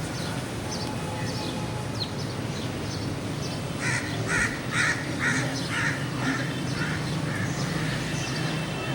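A crow cawing, about seven or eight harsh caws at roughly two a second, starting about four seconds in, over faint chirping of smaller birds.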